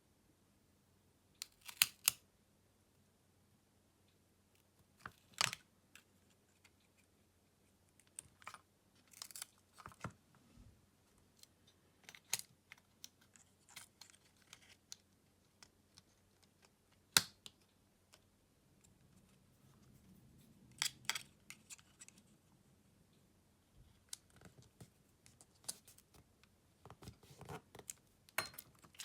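Irregular clicks and taps of small repair tools and parts of a Xiaomi Redmi Note 11 being handled on a workbench during disassembly, with a soft rustle in the middle.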